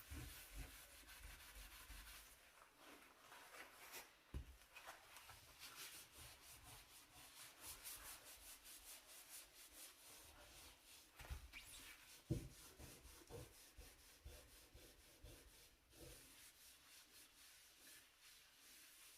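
Faint scrubbing with a brush on a dirty stove surface, quick rhythmic strokes, with a couple of soft knocks.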